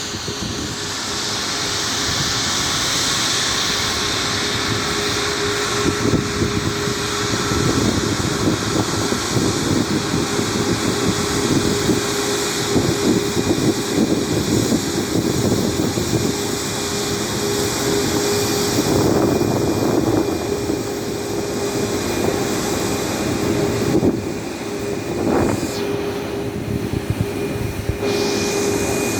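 Jet aircraft engine noise: a steady, loud rushing with a constant pitched tone through it, and a higher whine joining in the last third.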